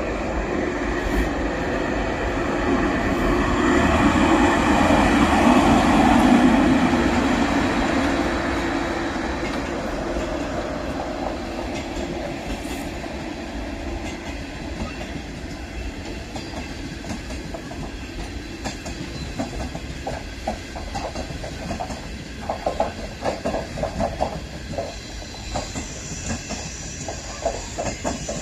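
A passenger train rolling past: a broad rumble swells as the locomotive goes by about four to seven seconds in, then the coaches pass with the wheels clicking over rail joints, the clickety-clack growing sharper and more frequent in the last third.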